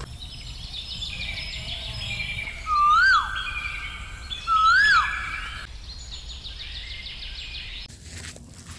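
Birds singing: rapid repeated chirping trills, with two loud whistled notes about two seconds apart, each rising then falling in pitch.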